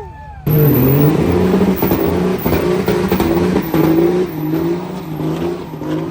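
A truck engine running loud, starting abruptly about half a second in, its pitch rising and falling as it is revved.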